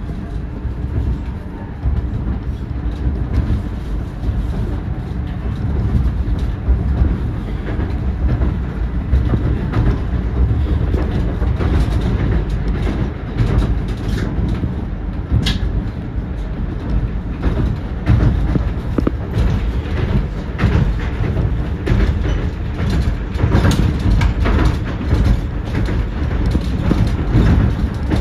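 ЭГЭ2Тв electric train running at speed, heard from inside the carriage: a steady low rumble from the wheels and running gear, with clicks of the wheels over rail joints and points that come thick and fast in the second half. About halfway through, a brief high squeal falls in pitch.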